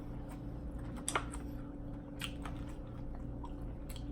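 A person chewing and biting crunchy food close to the microphone, with a few sharp crackling crunches, the loudest about a second in. A steady low hum runs underneath.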